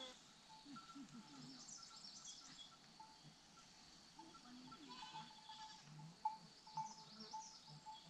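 Faint outdoor ambience: distant birds chirping now and then over a steady high insect buzz, with some faint low animal calls.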